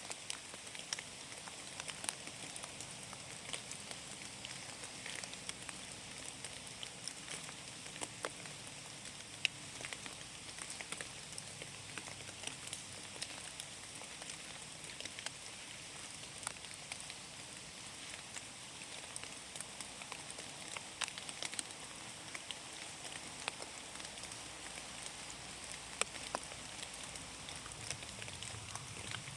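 Rain falling in a forest: a steady hiss with many separate drops ticking at irregular moments throughout.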